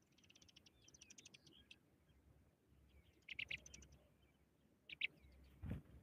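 Small songbird at a ground nest giving high, rapid chirps, a quick run of them at first and then two short louder bursts. A low thump comes near the end.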